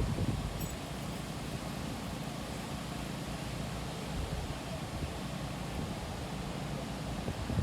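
Wind blowing against the microphone: a steady low rumbling rush.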